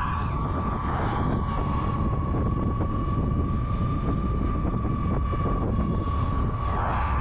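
Monday Motorbikes Gateway electric bike's 500 W motor whining at one steady high pitch under full throttle, over a heavy, steady rumble of wind on the microphone.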